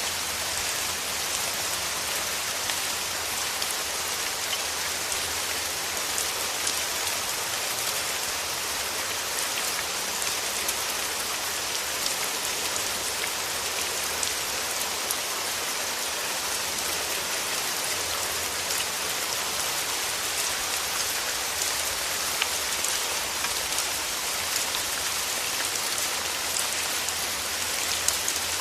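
Steady rain falling through forest trees: an even hiss made of countless small drop ticks, strongest in the high range, unchanging throughout.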